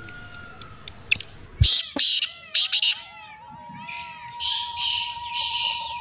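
Birds squawking: a few harsh squawks in quick succession about two seconds in, then a longer run of rasping calls in the second half, over faint repeated chirping.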